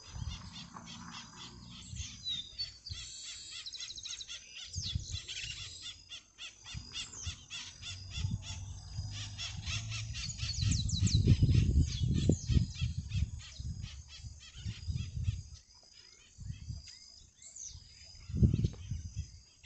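Small birds chirping and calling repeatedly in quick high note trains, with irregular bursts of low rumble on the microphone, heaviest about halfway through.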